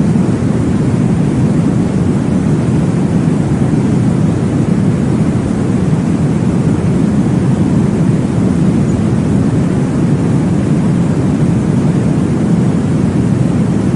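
Baby-sleep white-noise track: a steady, deep whooshing rumble that does not change, with no pulses or breaks.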